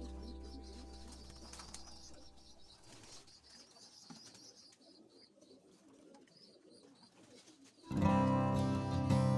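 Background music fades out, leaving faint pigeon calls from a loft. Guitar music starts loudly near the end.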